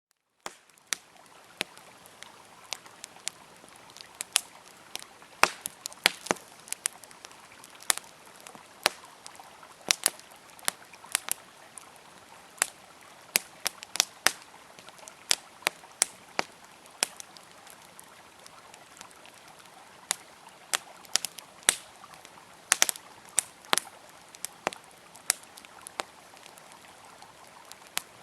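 Wood campfire crackling with irregular sharp pops, over the steady rush of a flowing river.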